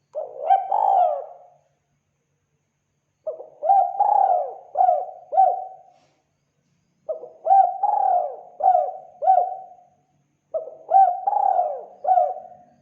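Spotted dove cooing: four phrases of several quick coos each, separated by short pauses.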